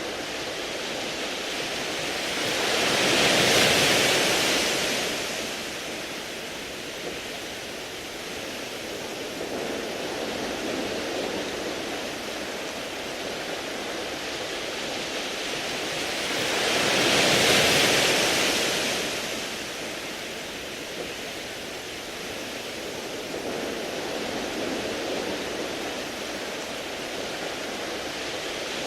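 Sea waves washing in over a beach of round, smooth pebbles: two waves swell up and fall away, about three and seventeen seconds in, over a steady rushing hiss of surf between them.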